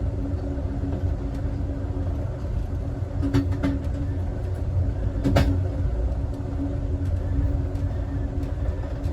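Amtrak Southwest Chief passenger car riding along the track: a steady low rumble with a humming tone, broken by a few sharp knocks a little over three seconds in and a louder one about five seconds in.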